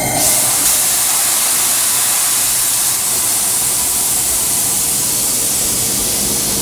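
A loud, steady hiss in a locomotive cab, starting suddenly and holding even, over the low hum of the running locomotive.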